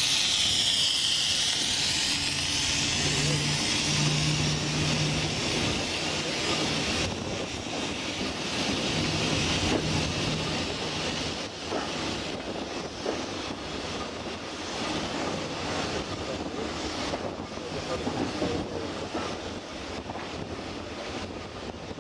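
Heritage train running: a loud steam hiss in the first couple of seconds falls away, then a steady low engine drone and the rumble and clicking of wheels on the rails carry on.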